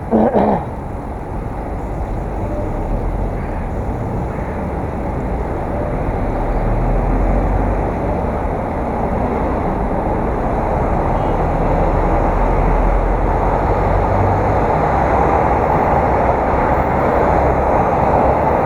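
Wind rushing over an action camera's microphone during a bicycle ride, with rumble from the road, getting gradually louder. A short, loud pitched sound comes right at the start.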